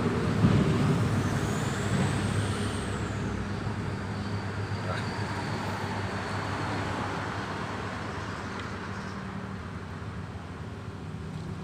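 A motor vehicle's engine and road noise passing and fading away, with a steady low hum underneath.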